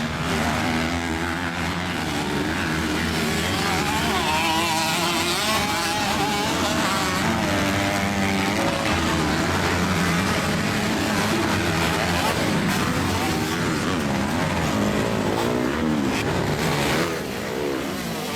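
Several motocross motorcycles racing together, their engines revving up and down in overlapping pitches as riders accelerate and shift around the track.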